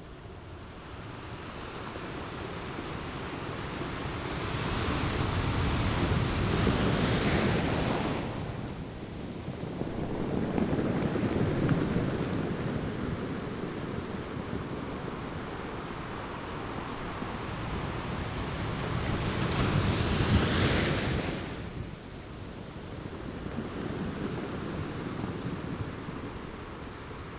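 Ocean surf: a steady wash of waves that swells into loud breaking crashes, one about five seconds in and another about twenty seconds in, with a smaller swell between them.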